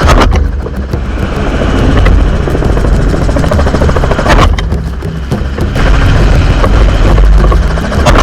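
Helicopter rotor and turbine running steadily, with a fast chop over a deep hum, broken by sharp bangs: one at the start, one about four and a half seconds in and one at the end.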